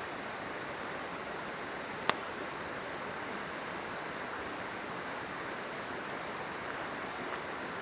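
Steady rushing of a river, with one sharp pop from a wood campfire about two seconds in and a few faint crackles after it.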